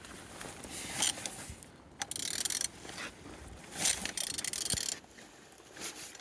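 Opel Z14XEP 1.4-litre four-cylinder petrol engine being turned over by hand at the crankshaft: repeated ratcheting, clicking strokes with the rattle of the turning engine, in several goes a second or two apart. It turns freely, the sign that the engine is not seized.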